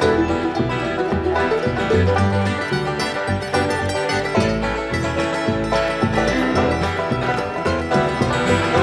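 Acoustic bluegrass band playing an instrumental passage, with rapid plucked banjo notes over a steady upright-bass line.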